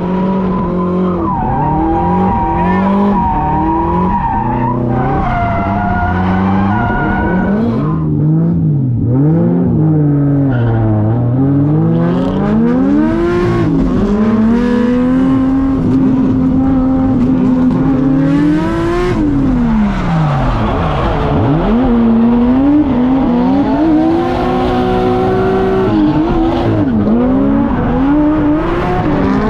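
Turbocharged drift car's engine held at high revs, its pitch swinging up and down as the throttle is worked through a drift and dropping sharply near two-thirds of the way in, with tyres squealing.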